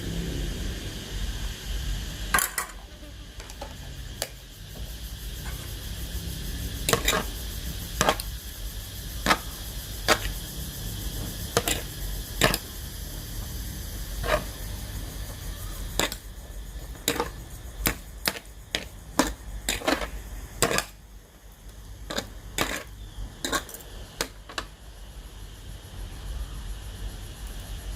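Irregular sharp clicks and knocks of kitchen utensils and dishes during cooking, coming closer together in the second half, over a steady low hum.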